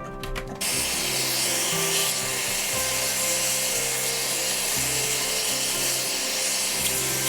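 A power tool cutting into wood, a steady rasping noise that starts about half a second in, with background music underneath.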